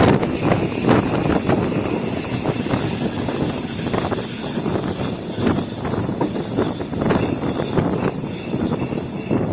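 Passenger train running along the line, heard from aboard a carriage: a steady rumble of wheels on the track with many short clicks from the rails. A steady high-pitched whine starts just after the beginning and holds.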